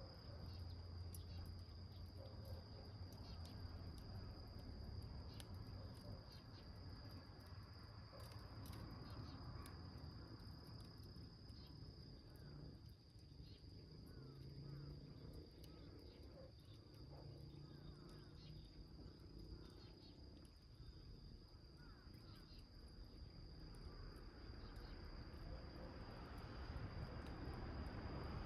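Small wood fire burning in a tin can, crackling faintly with scattered sharp ticks, against a steady high insect trill like a cricket's.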